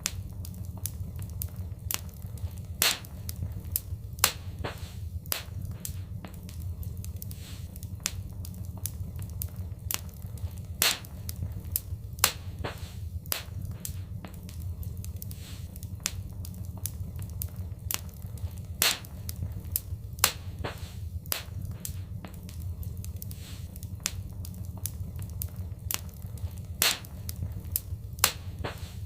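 Fireplace fire crackling: irregular sharp pops and snaps over a steady low rumble, with a few louder pops scattered through.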